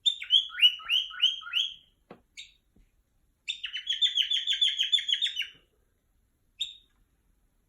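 Pet bird giving loud, agitated alarm calls: first about six downward-sweeping calls, then after a pause a fast run of about a dozen quick notes, and one last single call near the end. The calls are the bird's distress, 'yelling' at the wall.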